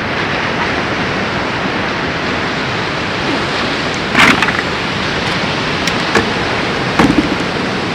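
Steady rush of ocean surf, with a few short handling rustles and clicks about four, six and seven seconds in.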